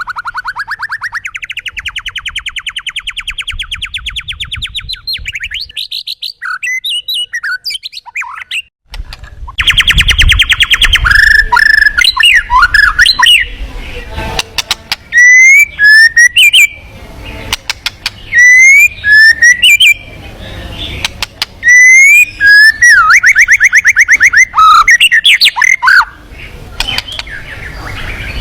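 Songbirds singing. A long rapid trill runs through the first third. After a brief break, loud repeated whistled phrases and chirps follow.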